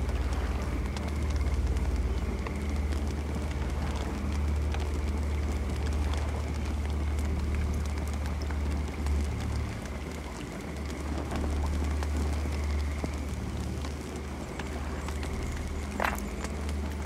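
Campfire burning: wood crackling and popping in scattered small snaps over a steady low rumble, with one sharper pop near the end. A faint steady insect drone sits in the background.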